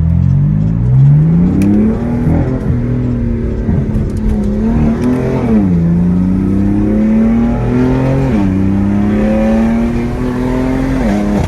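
Straight-piped BMW M4's twin-turbo inline-six accelerating hard through the gears: the exhaust note climbs, drops sharply at an upshift about halfway through and at another a few seconds later, climbs again, then falls away near the end.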